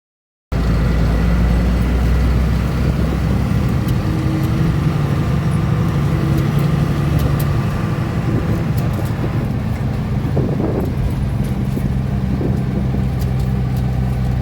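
A bus engine running steadily, heard from inside the cabin while the bus is driving, a low drone with occasional light rattles. The sound cuts in abruptly about half a second in.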